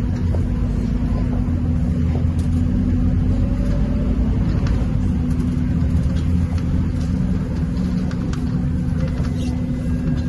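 Scania K230UB bus engine running steadily, a continuous low rumble with a steady hum, and faint rattles over it.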